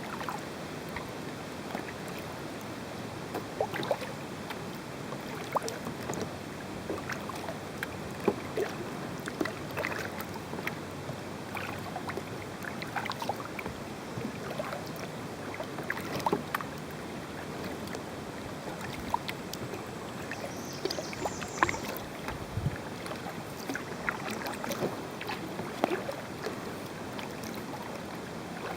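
Kayak paddling: irregular small splashes and drips as the paddle dips into the water, with a few light knocks, over a steady hiss.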